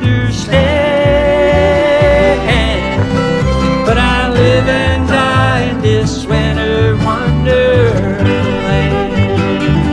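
Bluegrass band playing an instrumental passage, a fiddle carrying the melody over strummed guitar and a steady bass rhythm.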